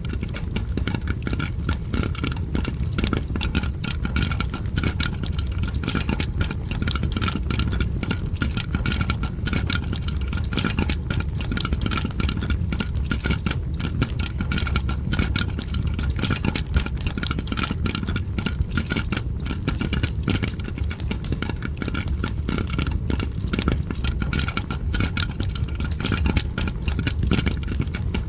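Popcorn popping: a dense, continuous stream of rapid small pops over a steady low hum.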